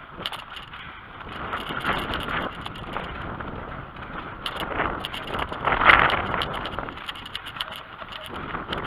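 Bicycle riding: wind buffeting the microphone over the rolling of the bike's tyres on the track, rising to a louder rush about six seconds in.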